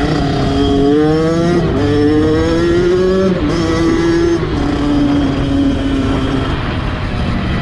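Kawasaki dirt bike engine accelerating through the gears, its pitch climbing and dropping back at each of about three upshifts, then running steadier.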